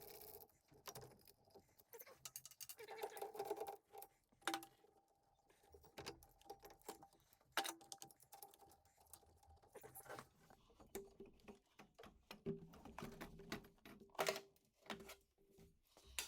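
Faint, scattered metallic clicks and clinks of hand tools working on engine-bay bolts and brackets, irregular and spaced out, with a few louder knocks.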